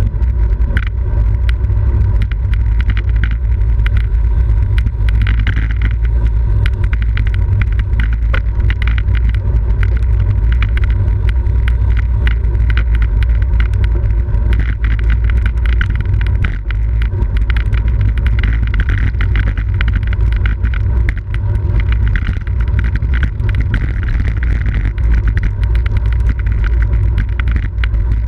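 Wind rushing and buffeting over a camera microphone on a bicycle moving at race speed, with many short clicks and rattles from the bike.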